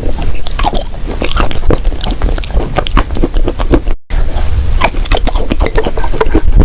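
Close-miked biting and chewing of crunchy dried clay: a dense run of sharp cracks and crunches, broken by a brief cut about four seconds in.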